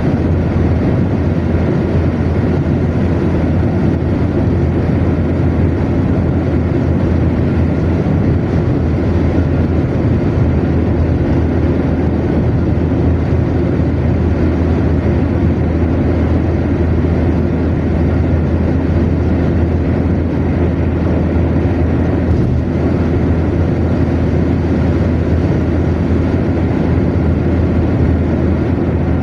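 Car cruising at motorway speed: a steady low rumble of tyres on the road surface and engine, unchanging throughout.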